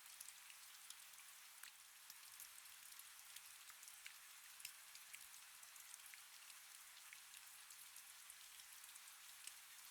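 Faint, steady rain with many small, sharp drop ticks scattered through it, the sound all in the upper range with almost no low rumble.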